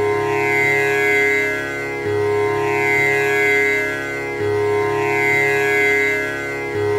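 Tanpura drone: its strings are plucked in a continuous cycle that starts over about every two and a half seconds, with a low note at the start of each round and a bright buzzing shimmer of overtones above.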